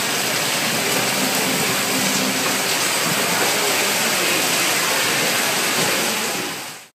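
Heavy downpour pouring onto pavement, a steady hiss of rain. It fades out quickly near the end.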